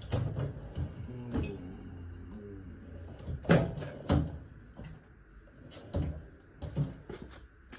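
Rummaging through a metal toolbox: a string of knocks and clatters of tools and drawers, the loudest two about three and a half and four seconds in.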